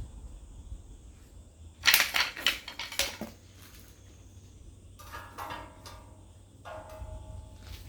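A quick run of sharp knocks and clatter about two seconds in, lasting just over a second. Near the end come two shorter scraping sounds with a ringing tone.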